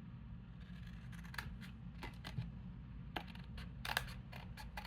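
Scissors snipping paper in a series of short, sharp cuts, starting about a second in and coming thicker near the end, over a low steady hum.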